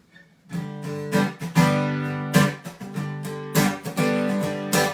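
Acoustic guitar strumming chords in a steady rhythm, starting about half a second in.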